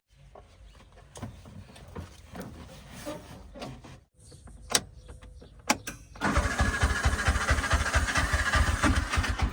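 A faint low engine rumble with scattered clicks, then about six seconds in a heavy diesel engine comes in loud, running with a fast, even firing beat.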